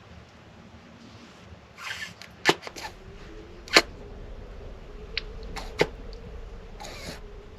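Several sharp knocks and clicks of objects being handled, with brief rustling. A faint steady hum comes in a few seconds in.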